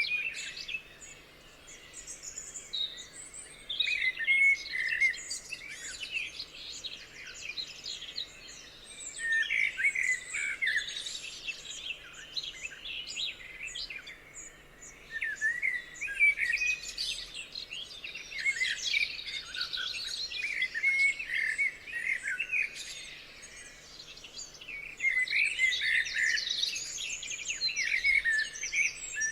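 Several songbirds singing and chirping together, bursts of quick high twittering phrases that rise and fall in waves with short lulls between.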